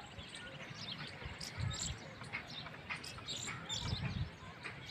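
Small birds chirping, many short overlapping high calls, with a couple of low rumbles about a second and a half in and near the end.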